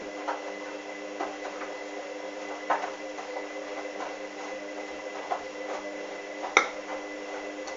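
Hoover washing machine running early in a towel wash: a steady motor hum with irregular clicks and knocks, the loudest about two thirds of a second and near the end.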